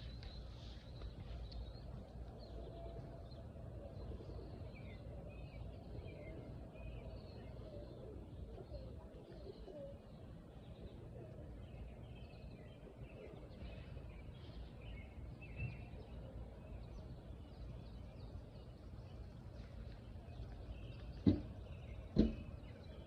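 Birds chirping and calling over a steady low background hum, with two sharp knocks close together near the end.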